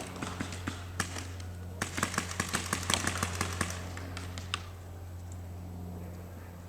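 Paintball markers firing rapid strings of shots, the pops thickest about two seconds in and thinning to a few scattered shots in the second half.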